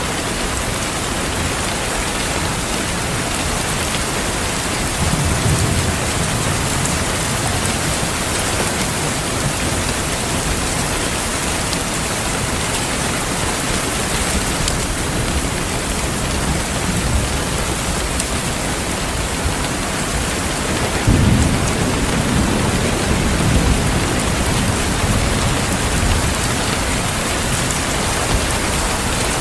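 Steady heavy rain falling, with distant thunder rumbling low twice, once about five seconds in and more strongly about twenty-one seconds in.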